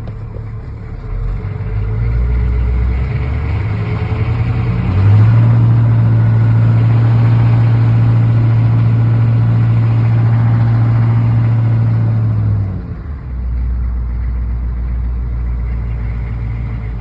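1983 Chevrolet Blazer's 6.2-litre diesel V8 running shortly after a cold start. It idles, is brought up to a higher steady speed about five seconds in, holds there for about eight seconds, then drops back to a low idle.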